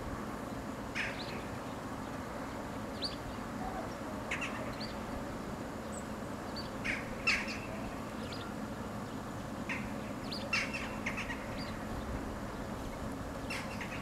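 Birds chirping: short, high calls come one at a time or in quick clusters of two or three, scattered through, over a steady low hum.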